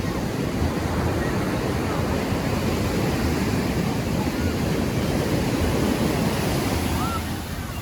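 Ocean surf washing onto the beach, a steady rushing that eases slightly near the end.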